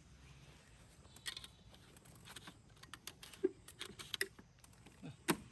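A string of irregular small clicks and knocks, the loudest about three and a half seconds in and another near the end.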